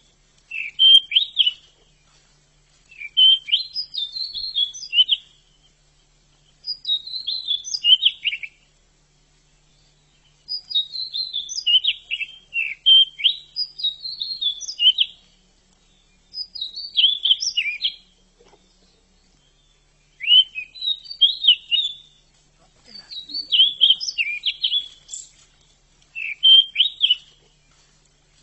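Pied bushchat (decu) singing: short, high, rapid warbled phrases of one to two seconds, repeated again and again with pauses of about a second between them, and one longer run of song near the middle.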